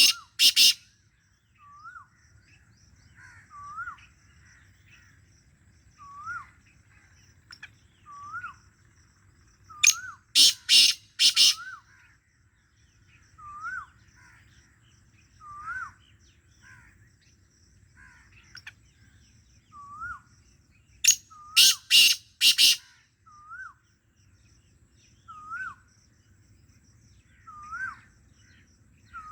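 Black francolin calling: a loud, harsh phrase of about four strident notes, given three times roughly every eleven seconds. Between the phrases, a fainter bird repeats a short rising note about every two seconds.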